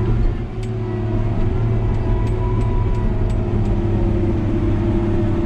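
New Holland D180C crawler bulldozer's diesel engine running steadily, heard from inside the cab, with a few light clicks over the drone.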